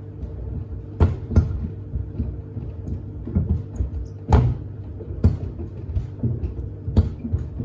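Sneakers tumbling in the drum of a Samsung WD70T4047CE front-loading washer, knocking irregularly against the drum and the door glass over the machine's steady low motor hum. The hardest knocks come about a second in and again past four seconds.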